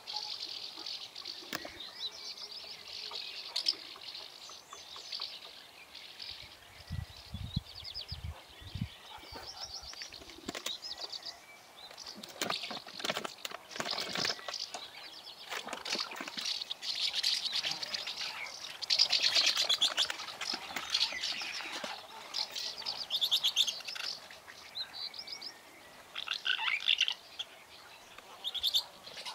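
Songbirds chirping, with several fast repeated trills among shorter calls. Short rustles and knocks of a packet and spoon being handled come in here and there.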